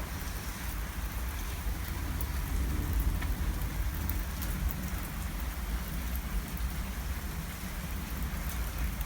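Hail and rain falling steadily, with scattered sharp ticks of ice pieces striking and a constant low rumble underneath.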